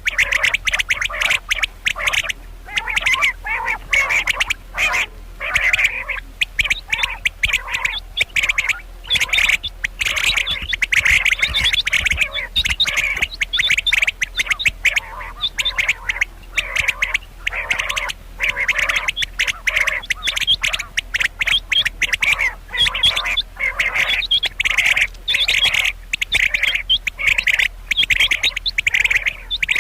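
Common quail calling over and over: quick runs of short, high notes repeated without a break.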